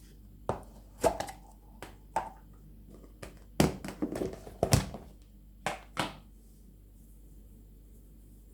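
A spoon or utensil tapping and clinking against a dish while cat food of rice and chicken is mixed: about nine irregular knocks, a few ringing briefly.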